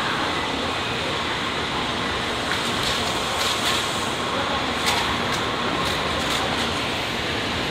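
Tokaido Shinkansen train rolling in along the platform and slowing to a stop: a steady rush of running noise. Scattered sharp clicks and knocks join from about three seconds in.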